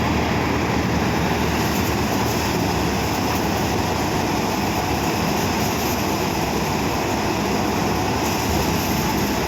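New Holland 6010 tractor's diesel engine running steadily.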